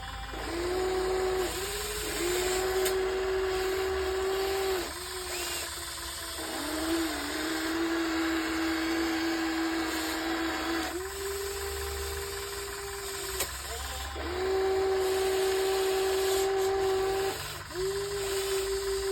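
RC excavator's electric drive whining with a steady hum, digging in sand. The hum breaks off and dips in pitch every few seconds, then settles again, as the arm and bucket controls change.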